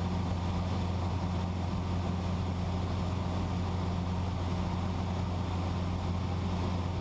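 Cessna 172's piston engine and propeller heard from inside the cabin in steady flight: an even, low drone that holds the same pitch throughout.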